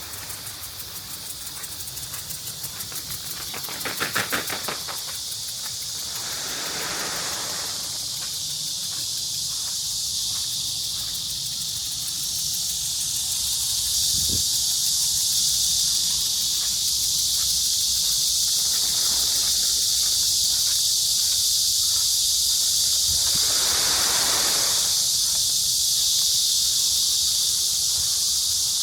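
Cicadas buzzing in a steady high-pitched chorus that grows louder about halfway through. A few shorter, lower calls swell and fade, one with a rapid pulsing near the start.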